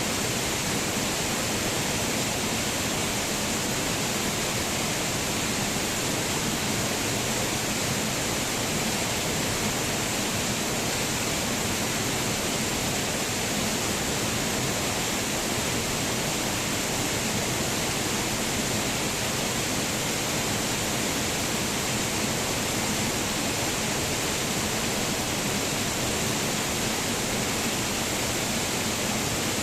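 Waterfall: falling water rushing in a steady, unbroken roar of noise with no let-up or change.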